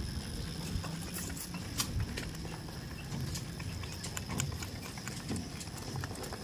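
Goats moving about, their hooves clicking and knocking irregularly over a low steady rumble.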